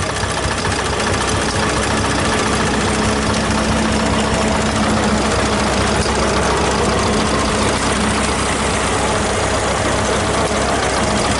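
Vintage stationary engines running steadily at idle, a dense mechanical running sound with fine rapid knocking and clatter.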